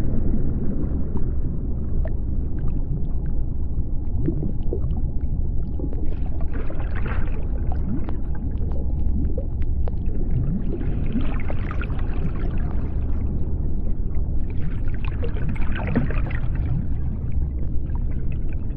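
Underwater sea-floor ambience: a steady low rumble, dotted with short rising chirps and three spells of fizzing crackle about six, eleven and fifteen seconds in.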